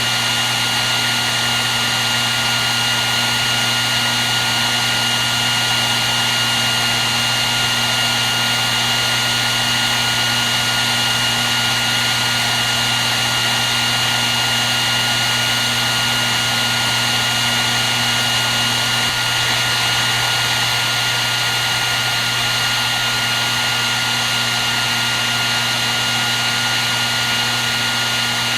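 Hair dryer running steadily: a constant rush of blown air with a steady high whine from the fan motor and a low hum beneath.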